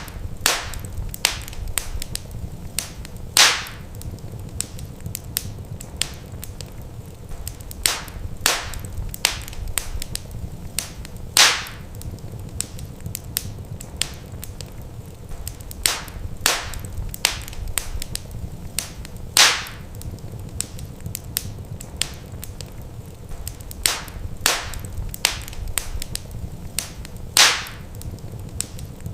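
Wood fire crackling in a fireplace: scattered sharp pops and snaps over a low steady rumble. The biggest pops come about every eight seconds, in a repeating pattern.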